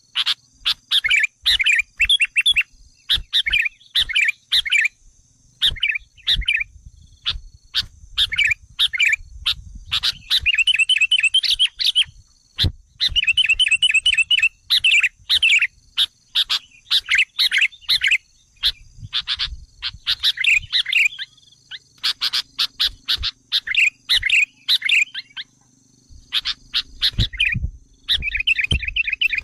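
Sooty-headed bulbuls (kutilang) giving rapid, excited bouts of chirping and chattering calls, played as a lure recording to provoke wild bulbuls into responding.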